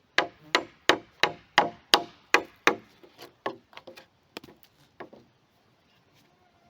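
Hammer striking wood, most likely driving a nail: a quick run of about eight hard, evenly spaced blows, roughly three a second, then lighter, uneven taps that stop about five seconds in.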